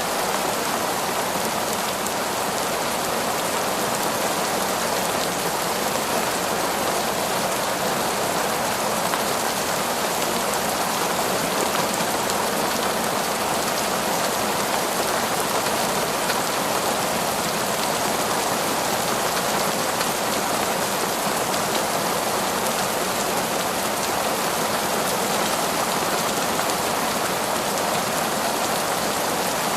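Heavy, torrential rain falling steadily, a dense even hiss of raindrops with no breaks or thunder.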